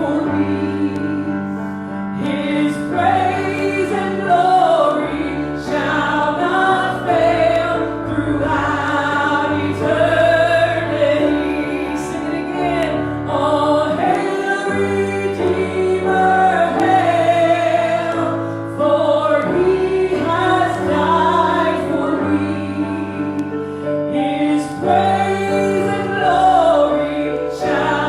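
Congregational worship music: a group of voices, a female voice prominent, singing a slow song over sustained instrumental accompaniment with held bass notes.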